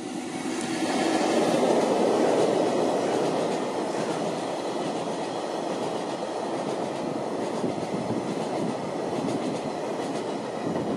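Freight train passing close by: an EF65 electric locomotive followed by a long string of empty oil tank wagons, wheels rumbling on the rails with clicks. Loudest about two seconds in as the locomotive goes by, then a steady rumble of wagons.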